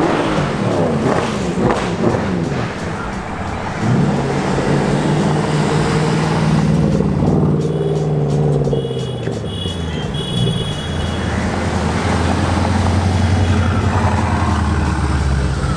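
Mercedes-AMG cars, among them a C63 AMG with its 6.2-litre V8, driving slowly past with their engines running. There are short rising and falling revs at first, then a deep steady engine note that drops lower about nine seconds in and holds there.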